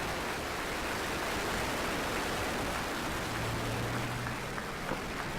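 Falcon 9 first stage's nine Merlin engines at full thrust during liftoff and early climb: a steady rushing noise.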